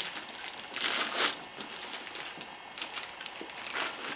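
Wrapping paper crinkling and tearing in several rustling bursts as a gift is unwrapped, the loudest about a second in and again near the end.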